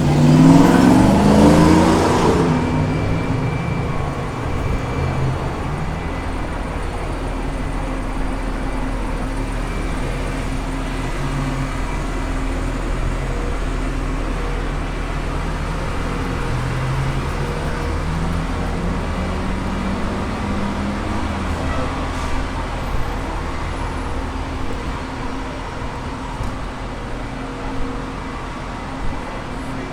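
City street traffic: a motor vehicle accelerating close by, its engine note rising and loudest in the first couple of seconds. Then a steady engine hum, with another engine rising in pitch around the middle and a few light knocks near the end.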